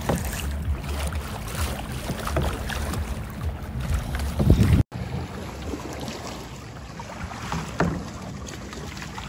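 Water and wind noise from a kayak on the sea, with wind buffeting the microphone and a steady low hum through the first half. The sound cuts out for an instant about halfway through, and the rest is quieter.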